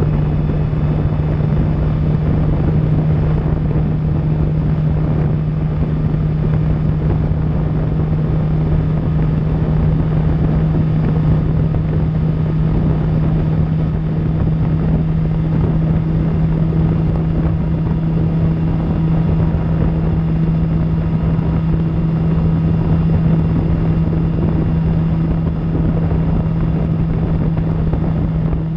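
2000 Suzuki GSX-R750's inline-four engine with an Akrapovic exhaust, running at steady revs while cruising, its drone holding one even pitch. Wind rushes over the microphone underneath.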